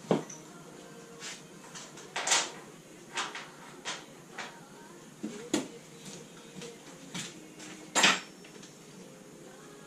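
Metal hand tools and parts clinking and clanking during mechanical work: a series of separate sharp knocks at irregular intervals, the loudest right at the start and about eight seconds in.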